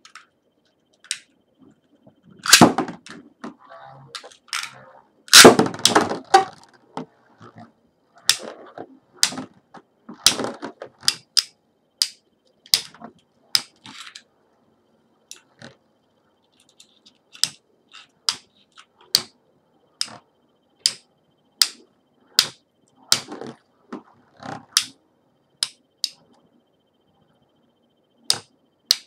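Beyblade Tornado Battlers spinning tops battling in their plastic stadium. Two loud clatters come a few seconds in, followed by many sharp plastic clacks roughly once a second as the tops strike each other.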